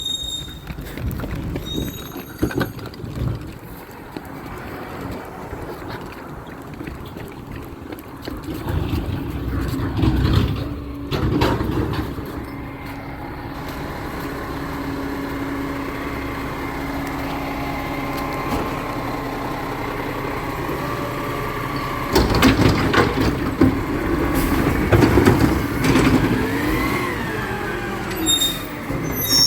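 Recycling truck running, with a steady engine hum and a whine that builds through the middle. In the last several seconds come louder knocks and clanks, and a pitch that rises and falls.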